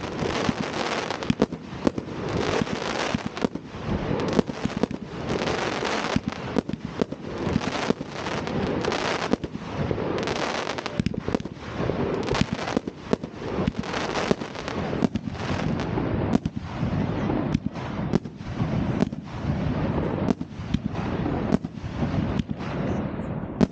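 Fireworks going off without a break: many overlapping bangs and crackles.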